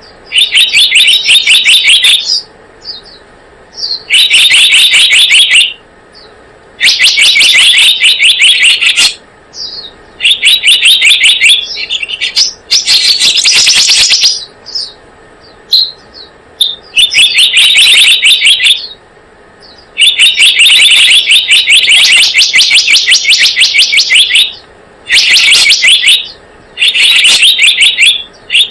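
A recorded call of the selendang biru, played as a lure to attract the bird. It comes as loud bouts of rapid, chattering notes, each bout lasting a second or two, repeated with short pauses between them.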